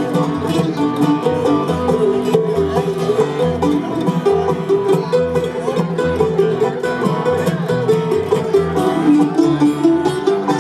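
Live bluegrass band playing, with quick banjo picking to the fore over guitar and a steady pulse of low bass notes.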